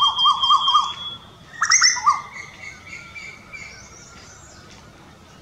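Birds calling in a tree: a quick run of about six rising notes over a thin, steady high whistle in the first second, then a burst of sharp, louder calls about a second and a half in, with fainter scattered chirps after.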